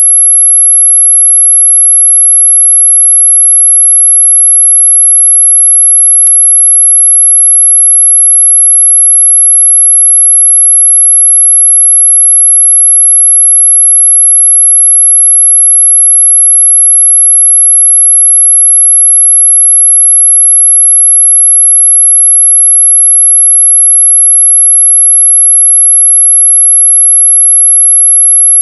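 Electronic 'anti-mosquito' repellent tone: a single loud, very high-pitched sine tone held steady and unchanging.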